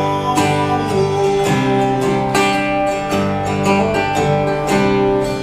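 Live folk-rock band music, with acoustic guitar strumming steadily under held notes in an instrumental passage.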